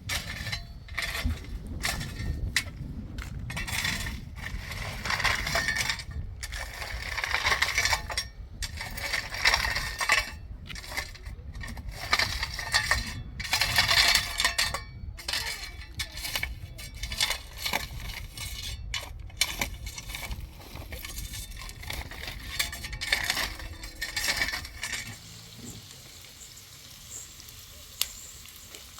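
Irregular gritty scraping strokes mixed with clinks, coming in quick uneven runs and dying away about 25 seconds in, followed by a single sharp click near the end.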